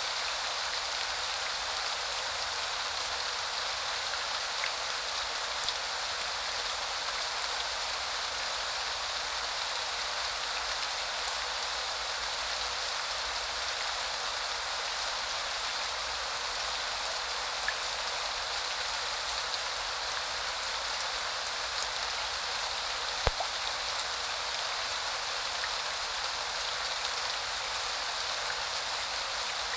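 Steady rain falling, an even hiss with scattered drop ticks and one sharper tap about two-thirds of the way through.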